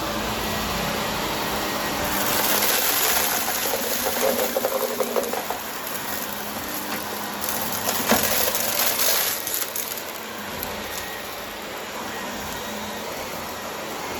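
Vacuum cleaner running with its brushroll spinning, crunching and crackling as it picks up dry crunchy debris, with two louder stretches of crackling.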